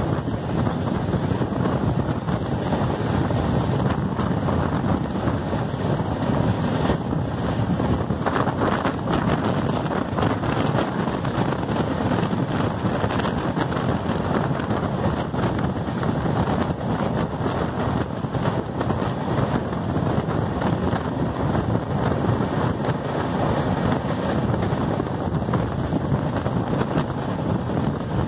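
Passenger train running at speed, heard from its doorway: a steady rumble of wheels on the rails with wind buffeting the microphone.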